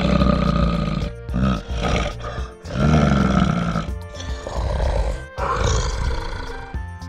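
Several deep, rough animal calls over background music; the longest and loudest come at the start and about three seconds in.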